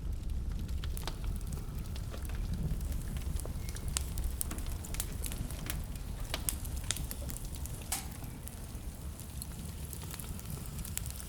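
Wood fire burning in a fireplace, crackling with irregular sharp pops over a low, steady rumble.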